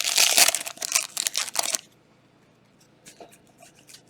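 Trading-card pack wrapper crinkling as it is torn open and pulled away, stopping abruptly about two seconds in; afterwards only a few faint clicks of cards being handled.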